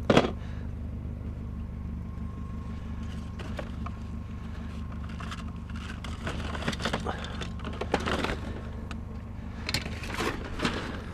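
A motor vehicle engine idling steadily, with scattered light knocks and rattles over it, loudest at the very start and again near the end.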